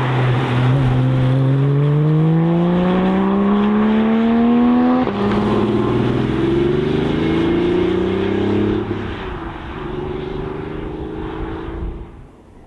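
Sports car engine accelerating hard, its pitch climbing through the gears: a sudden upshift about five seconds in and another near nine seconds, then the sound fades away near the end.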